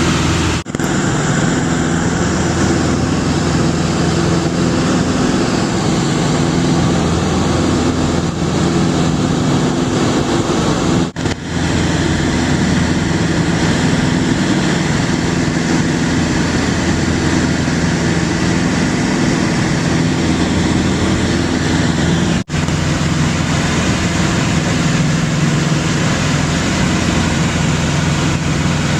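Steady engine drone of a small airplane heard from inside the cabin, a constant low hum with several even tones over a rushing noise. It briefly drops out three times, about a second, eleven and twenty-two seconds in.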